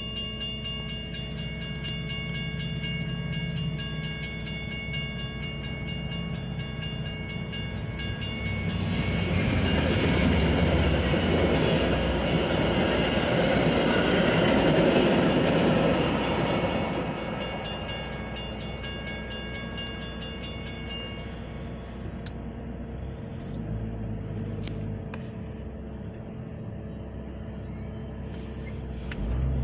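Railroad crossing bell ringing steadily while a Metra commuter train passes over the crossing. The train's rumble and wheel noise swell loudest from about 9 to 17 seconds in. The bell stops about 21 seconds in, leaving a low steady hum.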